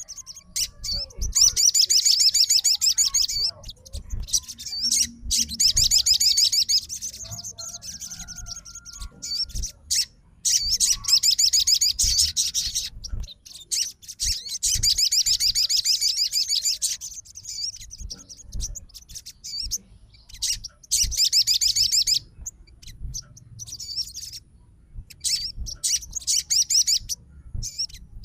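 Crimson sunbird (sogon) singing: loud, rapid, high-pitched trilling phrases of one to three seconds, repeated again and again with short pauses.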